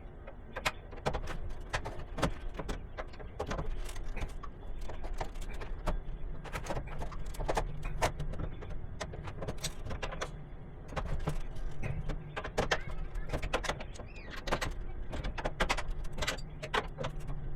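Irregular clicks and clinks of hand tools and metal parts being handled while wiring a breaker panel, over a steady low hum.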